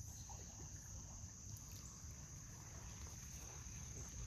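Faint, steady, high-pitched insect chorus over an even low rumble.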